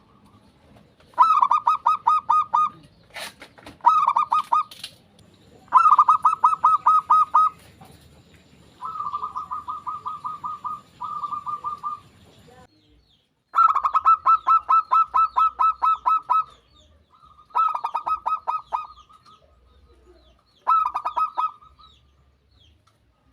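Local zebra doves (perkutut) singing: eight phrases of rapid, rolling cooing notes, each lasting one to three seconds, with short pauses between them.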